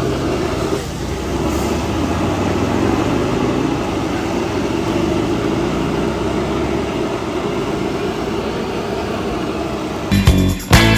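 Car-hauler semi truck running steadily, a low engine hum under even road noise. Music with a beat starts about ten seconds in.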